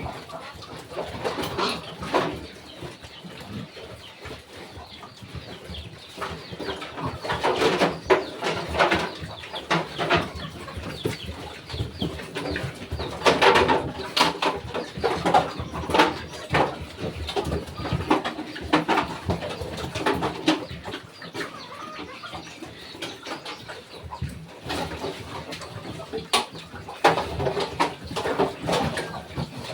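Farm animals calling, a busy run of short, irregular cries and clucks, with louder spells around a quarter and halfway through and again near the end.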